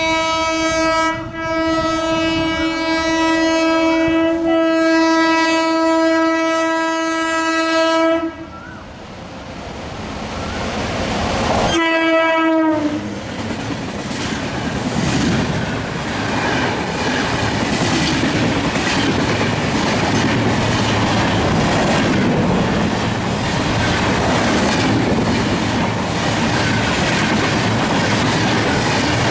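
Indian Railways high-speed electric train sounding one long, steady horn note for about eight seconds, then a short second blast. It then passes at speed, with the rush of the train and the clickety-clack of its wheels over the rail joints.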